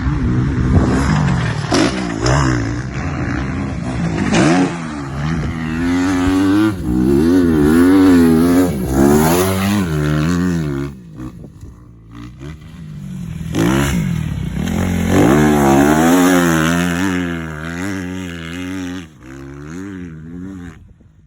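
Motocross dirt bike engine revving up and down in quick waves as it is ridden, with clatter and scraping. It eases off about halfway, then picks up again.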